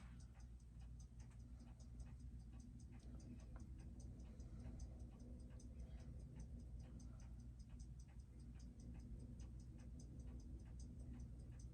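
A Seiko 6R15 automatic watch movement ticking evenly at about six beats a second over a steady low hum.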